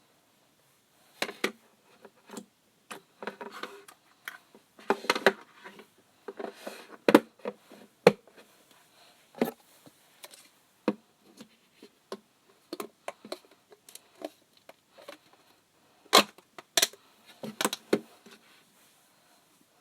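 Slime being played with by hand: irregular sticky clicks, pops and short crackly squishes, some much louder than others.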